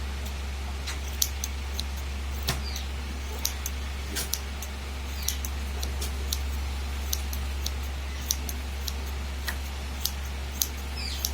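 Scissors snipping woolen yarn in short, irregular snips, about one or two a second, over a steady low hum.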